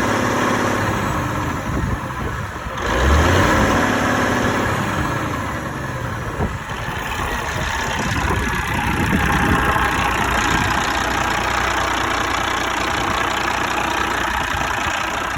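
Diesel engine of a Kenworth T800B heavy truck running at idle, with a brief rise in engine sound about three seconds in.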